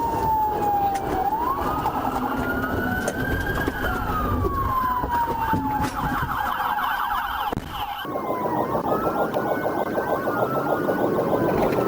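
Police car sirens wailing, sliding up and down in pitch, with a stretch of fast yelp in the middle. After about eight seconds the sound changes abruptly and more than one siren wails at once, over road and engine noise.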